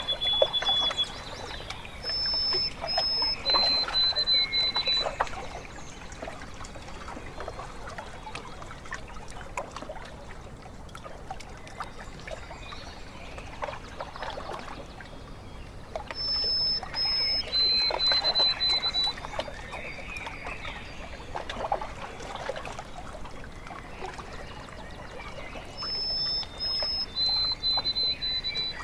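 Small waves lapping and trickling at the water's edge, with a bird's short song of high, thin whistled notes, two brief notes then a longer held one, repeated three times at intervals of about ten seconds.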